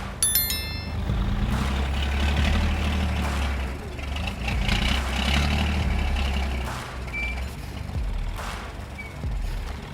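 Heavy vehicle's diesel engine running, its low drone swelling and easing, with hissing noise over it. A quick run of high electronic tones sounds right at the start.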